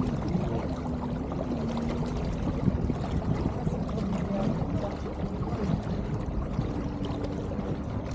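Water rushing and gurgling along the hull of a small sailing keelboat under way, heard as a steady wash, with a faint low wavering hum running through parts of it.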